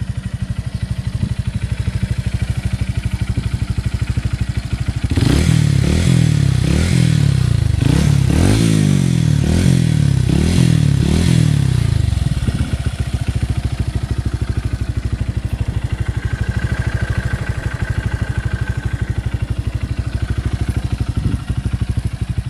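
Honda CBF125's single-cylinder four-stroke engine, fitted with an aftermarket performance exhaust, idling steadily, then revved in a run of quick throttle blips for several seconds before settling back to idle.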